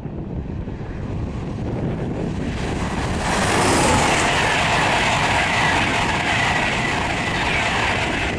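Wind buffeting the microphone, then from about three seconds in the loud rush of an LNER InterCity 225 (class 91 electric locomotive with Mark 4 coaches) passing at speed, which holds to the end.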